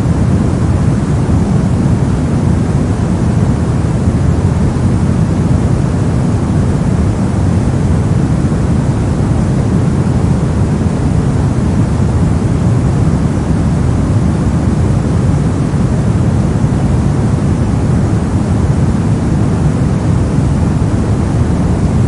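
Continuous soft, low-weighted noise, a steady rumbling hiss with most of its strength in the low end, like brown or pink noise, unchanging throughout.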